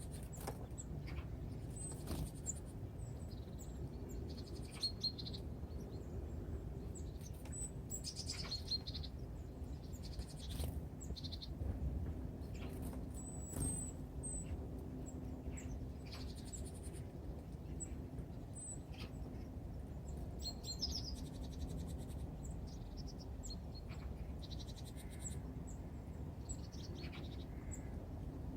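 Small birds at a winter feeder, tits and finches, giving many short high chirps and call notes, with scattered sharp clicks. A steady low rumble of background noise runs under them.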